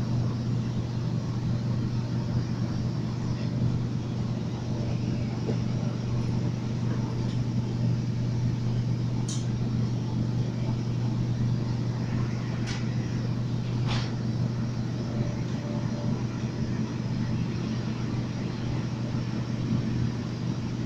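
Running noise of an MTR Tung Chung line train in motion, heard inside the car: a steady low hum and rumble from the motors and the wheels on the rails. A few brief high squeaks come about nine, thirteen and fourteen seconds in.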